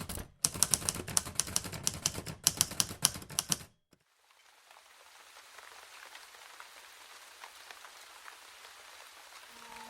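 Rapid, irregular typewriter-style key clacking for nearly four seconds, stopping abruptly. Then a faint, steady patter of rain fades in and slowly grows.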